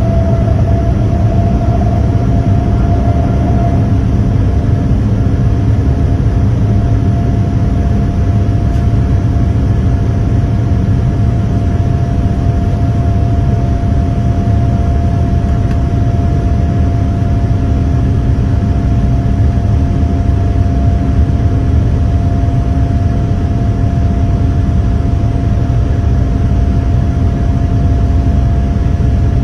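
Boeing 787-10's jet engines heard from inside the cabin, their whine rising briefly in pitch in the first few seconds and then holding at a steady high power over a deep, steady rumble.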